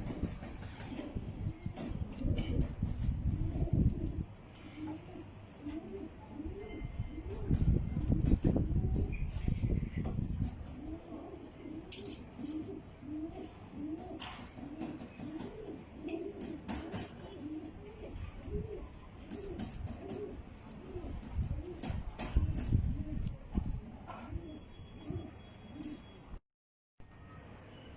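Jacobin pigeons cooing: a long run of short coos repeating about twice a second, with higher chirps above them. Heavy low rumbling comes and goes, in the first few seconds and again about eight seconds in.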